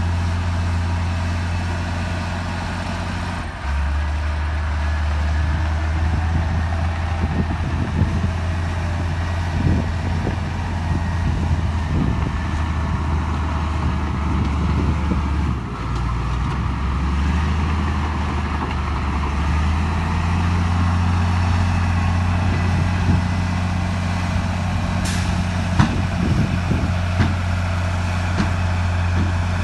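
Heavy diesel engine of earthmoving machinery working under load; its note drops and rises a few times as the load changes. Scattered metal clanks run through it, with one brief high squeal near the end.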